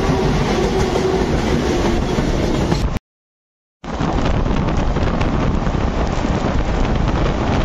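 Express passenger train running at speed, heard from an open coach doorway: a steady rush of wheels on rail and wind, with a faint held tone that fades in the first two seconds. The sound cuts out completely for under a second about three seconds in, then the running noise carries on.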